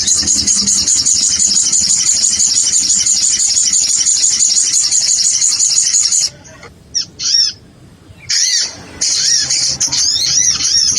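Sogon sunbird lure call: a fast, high, unbroken chattering trill for about six seconds, then broken into separate arched chirps with short pauses.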